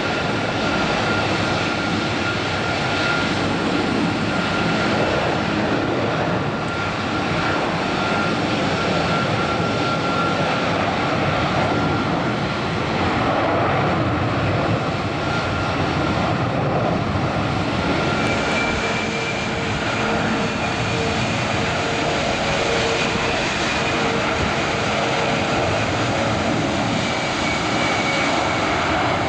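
Boeing 747-400 jet engines running: a steady roar with a thin high whine over it, the whine shifting to a higher pitch about two-thirds of the way through.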